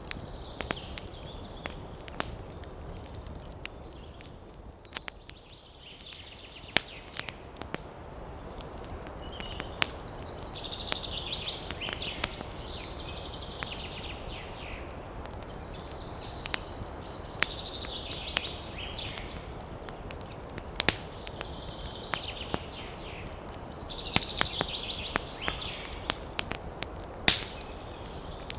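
Campfire crackling with frequent sharp pops, over a steady low rush of wind in the trees. Bursts of high, chattering bird calls come and go several times, each lasting a couple of seconds.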